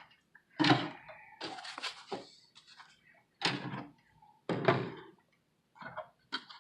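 Box and packaging being handled: a series of knocks and thuds, about six, with short scraping and rustling between them, as the box is opened and the keyboard pieces are lifted out.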